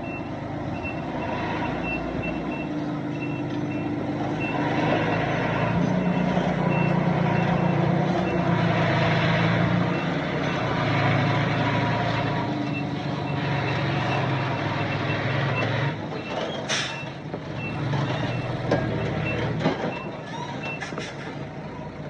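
Reversing alarm on heavy earthmoving machinery beeping about twice a second over a diesel engine that revs up and down. The beeping stops a few seconds before the end, and a few sharp knocks follow.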